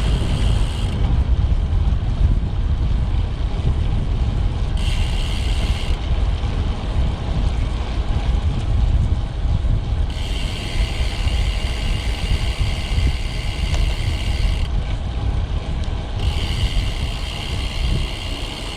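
Wind buffeting the microphone on a moving road bike, a steady low rumble. A higher, even buzz comes in and drops out again four times.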